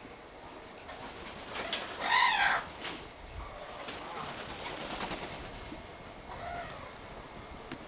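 Pet parrot calling: one loud, arching squawk about two seconds in and a fainter, shorter call a little after six seconds.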